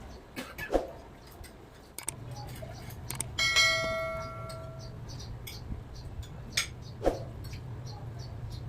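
Light clicks and taps of small parts being handled, with one bright metallic ring about three and a half seconds in that fades over a second or so, as of a small metal piece struck or dropped. A low steady hum starts about two seconds in.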